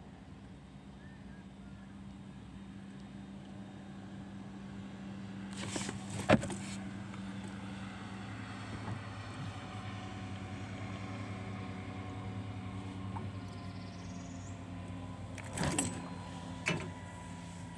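A steady engine hum, like a motor vehicle, growing louder over the first few seconds and then holding. A sharp knock cuts in about six seconds in, and two more clicks come near the end.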